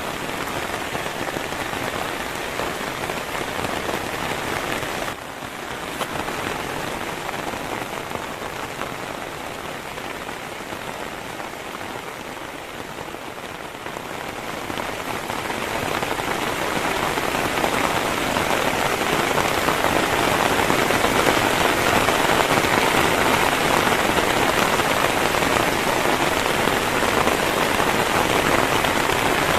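Heavy rain falling steadily. It drops suddenly a little about five seconds in, then grows heavier and louder from about fifteen seconds on.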